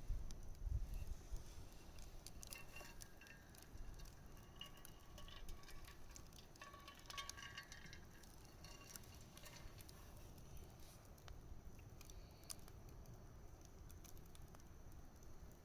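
Wood campfire crackling faintly, with scattered small pops and ticks of burning wood and a thin whistling for a few seconds in the middle. A brief low rumble comes in the first second.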